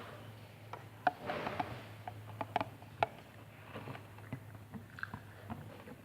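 A person chewing and biting fried sausage close to the microphone: irregular soft smacks and sharp mouth clicks, over a faint steady low hum.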